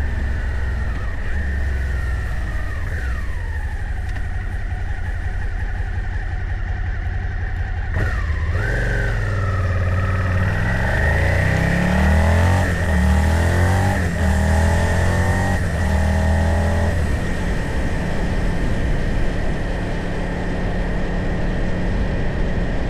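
Motorcycle engine running while riding. It revs up several times in succession between about nine and seventeen seconds in, as if accelerating through the gears, then settles to a steady cruise.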